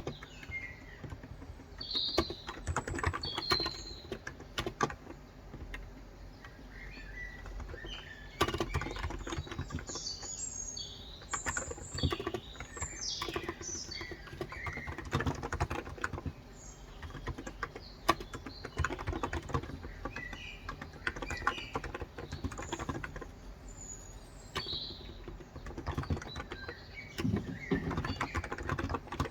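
Typing on a COX Endeavor electro-capacitive (Topre-style) tenkeyless keyboard with 35 g switches: runs of soft keystrokes with short pauses. Birds chirp in the background.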